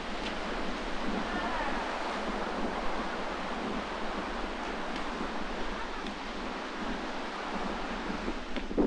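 Sea waves breaking and washing on the shore in strong wind, a steady rushing noise with wind buffeting the microphone. A sudden louder rush comes just before the end.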